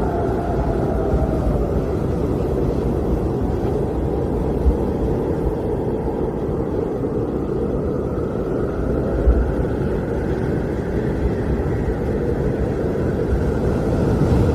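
Blizzard wind blowing steadily: a low, rushing rumble with a faint whistling tone that slides down in pitch during the first two seconds, and a couple of brief low gusts.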